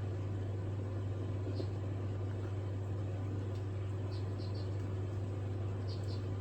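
Steady low background hum with a faint haze of noise, and a few faint, light clicks scattered through it.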